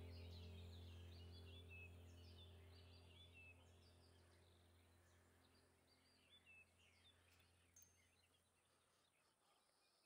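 Faint songbirds chirping over a low steady hum, both fading away to near silence by near the end.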